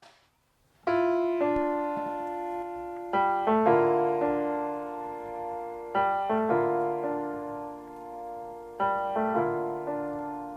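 Background piano music: slow chords struck in pairs every few seconds and left to ring and fade.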